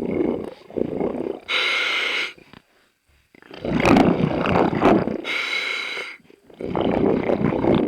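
Scuba diver breathing through a regulator underwater. Short hisses of the inhale, each with a thin whistle in it, alternate with longer rumbling bursts of exhaled bubbles, twice over.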